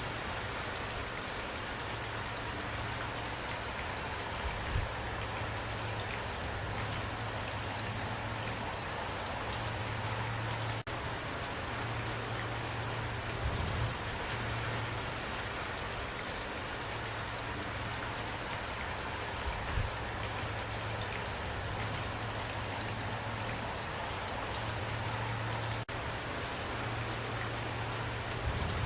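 Steady rain falling, an even hiss of many drops, with a low rumble that swells and fades underneath and a few soft low thumps.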